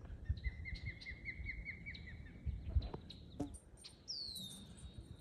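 A large bird calling near its nest in alarm at an intruder: a quick series of about nine sharp chirped whistles, then a single falling whistle near the end, which the walker thinks could be an osprey. Low rumble and a couple of soft knocks from handling the camera run under it.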